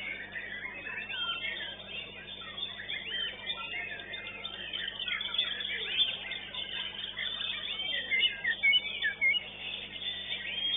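White-rumped shama (murai batu) singing a fast, varied run of whistled phrases, slurred notes and trills that goes on without a break.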